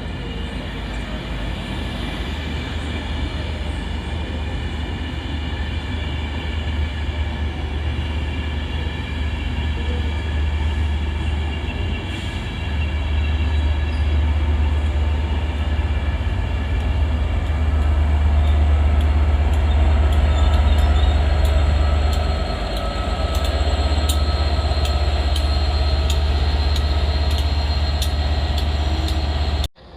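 Diesel train running past close by, with a heavy low rumble and steady engine drone that grow louder through the middle. A quick run of clicks from the wheels comes in during the second half. The sound cuts off abruptly near the end.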